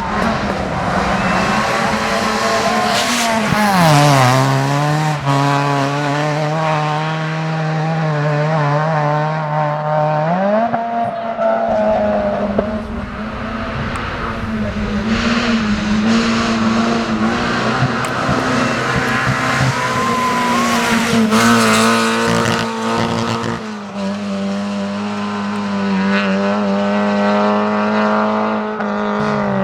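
Rally car engine held at steady high revs. The revs drop about four seconds in and climb back up about ten seconds in.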